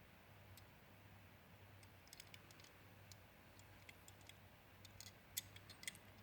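Near silence with faint, scattered light clicks, more of them in the second half and one a little louder near the end: fingers handling a small diecast model car.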